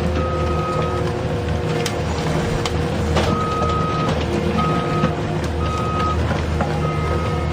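Reversing-alarm beeps, a single high tone sounding about five times at uneven intervals, over a steady low engine drone.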